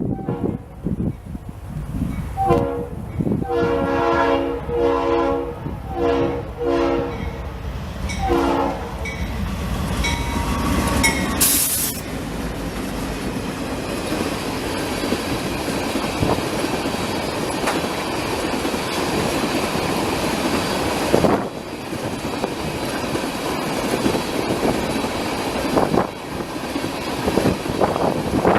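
Train's multi-chime air horn sounding several blasts in a row, followed by the train rolling past with a steady rumble and wheel clatter on the rails. Wind buffets the microphone.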